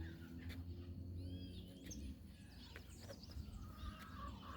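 Faint, scattered bird chirps, a few short curved calls, over a low steady rumble of outdoor background noise.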